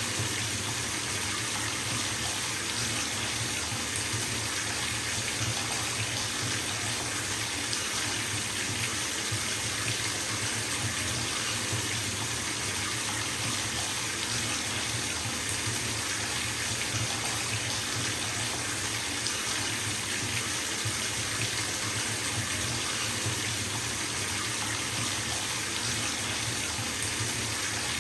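Bathtub filling from the tap: water running steadily from the spout into the tub.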